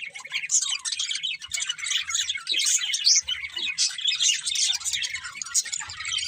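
Budgerigars chirping and chattering in a dense run of rapid, overlapping high chirps.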